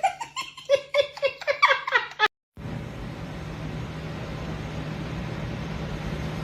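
A person laughing in short rapid pitched bursts for about two seconds. Then, after a sudden cut, a steady rushing noise with a low hum, as of a car driving.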